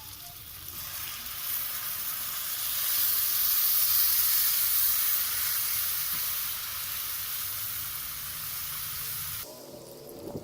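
Tamarind water poured into a hot pan of tomatoes, chillies and spices cooked in oil, sizzling. The sizzle builds from about a second in, is loudest around three to five seconds, eases off, and stops abruptly near the end.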